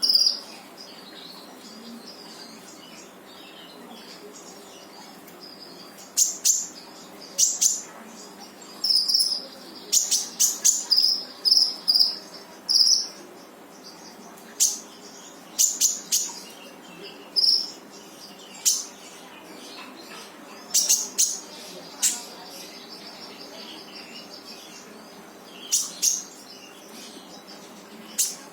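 Konin songbird calling in short, sharp, high 'tembakan' notes, coming in irregular bursts a second or so apart, with a few seconds' pause near the start. A faint steady hum runs beneath.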